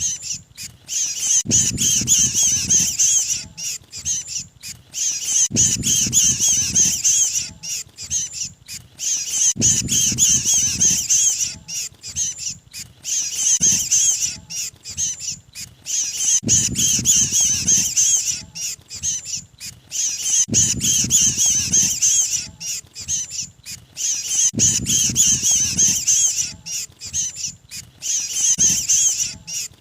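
Bird-lure recording of mantenan bird calls, the 'kejepit' distress calls of a pinched or trapped bird, played in a loop: dense, rapid, high-pitched chattering and squawking. A low rumbling segment comes back about every four seconds.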